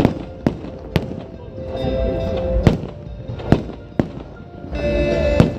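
Fireworks bursting overhead: about six sharp bangs at uneven intervals, with music playing under them in sustained chords.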